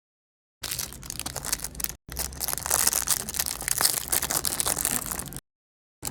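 Meat grinder crushing bubble gum: a dense crackling crunch that lasts about a second and a half, breaks off briefly, then runs louder for over three seconds before cutting off suddenly.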